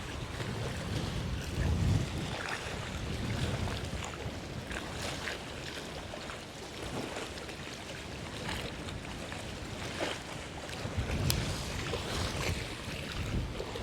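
Wind gusting over the microphone, a low uneven rumble that swells and eases, with faint scattered ticks.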